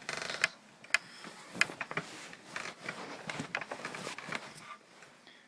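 Rustling and a scatter of soft knocks and clicks as stuffed toys are handled and bumped together by hand, dying away near the end.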